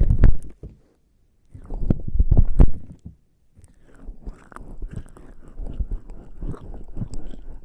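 Bare skin slicked with lubricating jelly rubbed against a binaural microphone's ears, a dense crackling rub. It comes in two loud spells in the first three seconds, then goes on more quietly after a brief pause.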